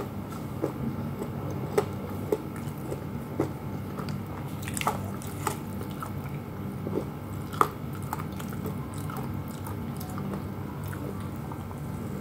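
Close-up mouth sounds of someone eating crispy fried chicken: chewing and biting, with irregular crunchy clicks.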